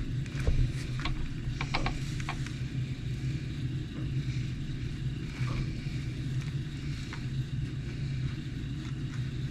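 A steady low mechanical hum, with small sharp clicks and taps of RC-truck parts and tools being handled: a quick cluster in the first couple of seconds, then a few scattered ones.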